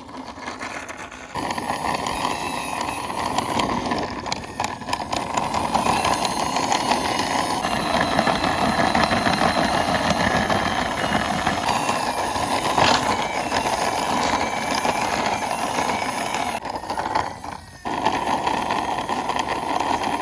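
Plastic wheels of a cheap toy car rolling and grinding along the rough top of a wall as it is pushed by hand. The rattling rumble is continuous, apart from a brief stop near the end before it starts again.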